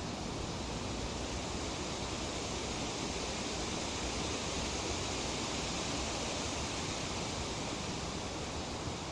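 Tree leaves rustling in a light breeze, a steady even hiss that swells slightly about halfway through.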